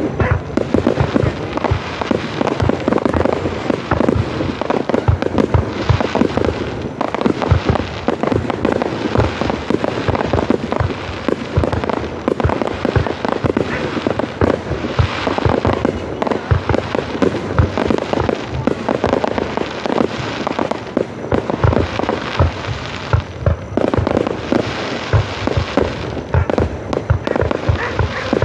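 Fireworks display: a dense, unbroken run of bangs from aerial shells going off one over another.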